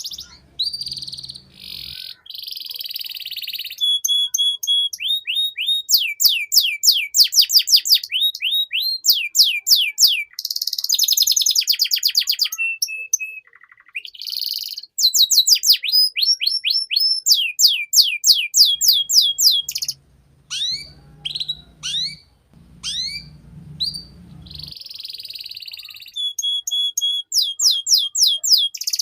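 Domestic canary singing a long, varied song: trills of rapidly repeated down-slurred notes, several a second, changing to buzzy rolls and short steady whistles every few seconds.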